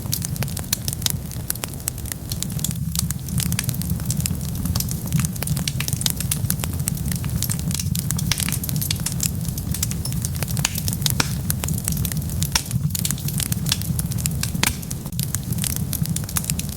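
Wood fire crackling, with many sharp pops and snaps at an irregular rate over a steady low rumble.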